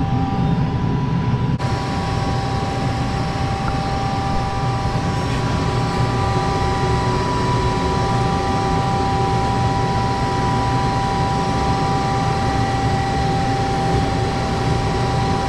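A motor-driven machine running steadily: an even drone with a steady whine over it.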